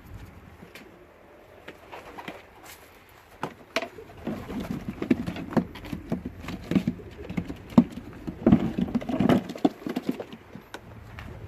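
Racing pigeons cooing, with scuffling and light knocks among the birds. It is quiet for the first few seconds and gets busier from about four seconds in.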